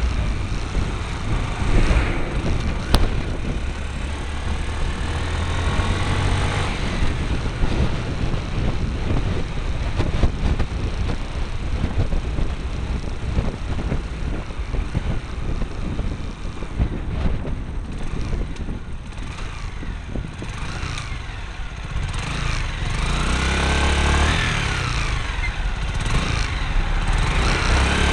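Motorcycle engine running under way, picked up by a small camera strapped to the bike, mixed with heavy wind and road noise. In the last few seconds the engine pitch rises and falls several times.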